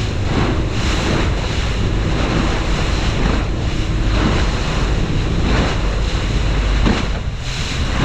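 Wind buffeting the microphone over water rushing and slapping against the hull of a speeding powerboat in choppy seas, with the engine's steady drone underneath and a surge of spray about every second.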